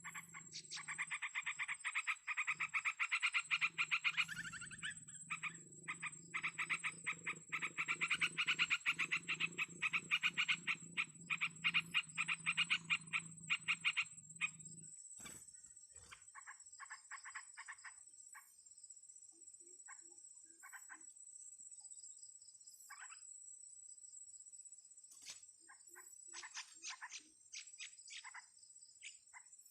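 Animal calls in dense, rapid pulsed trains for about the first fifteen seconds, then in sparser, quieter bursts, over a steady high-pitched whine.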